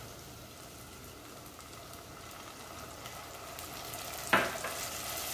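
Onions and ginger-garlic paste frying in oil in a clay pot, a steady sizzle that grows louder as chopped tomatoes go in, with a single sharp knock about four seconds in.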